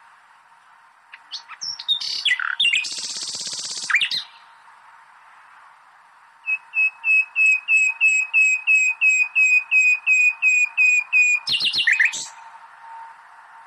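A songbird singing in separate phrases: a quick run of varied notes ending in a buzzy trill, then a long series of one sharp note repeated about four times a second, then a short closing flourish.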